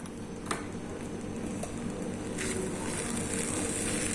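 Corn, cabbage and spring onion sizzling in a little oil in a kadai, the sizzle rising from about halfway as the mix is stirred with a spatula. A steady low hum runs under it, and there is a light click of the spatula against the pan about half a second in.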